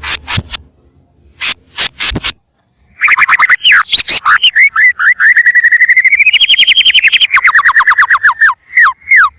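White-rumped shama (murai batu) singing loudly: a few sharp clicking notes, then about three seconds in a long, rapid trill of repeated notes that climbs in pitch and drops back, ending in a few falling whistles.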